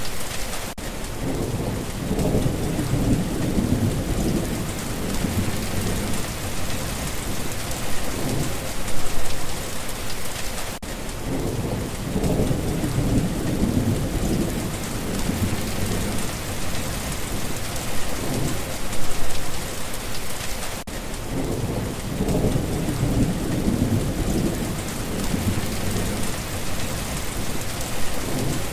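Steady rain falling, with low rolling thunder swelling up three times, about ten seconds apart.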